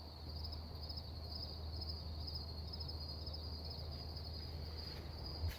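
Crickets chirping steadily in a high, finely pulsing trill, over a low steady rumble.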